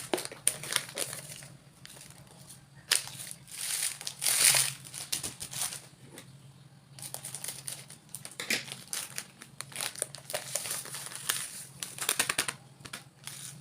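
Plastic packets of table salt crinkling as they are handled, opened and emptied into a container, with a longer rustling hiss about four seconds in.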